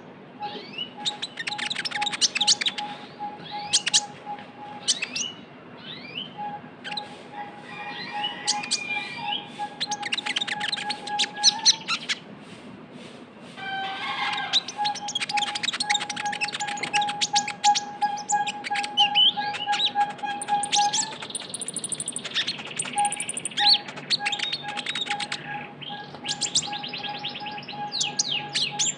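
Olive-backed sunbird (kolibri ninja) singing a fast, chattering trill of quick high notes in long runs, pausing briefly about halfway through. A steady whistling tone sounds beneath it and breaks off now and then.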